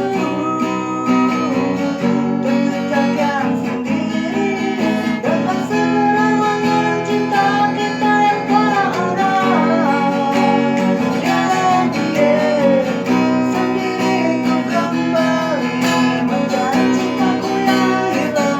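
Acoustic guitar strummed as accompaniment while a person sings, the voice's melody gliding above the chords.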